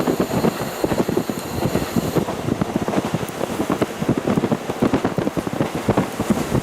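Wind buffeting the microphone through the fully open window of a moving KiHa 40 diesel railcar, over the train's running noise. A faint high-pitched tone stops about two seconds in.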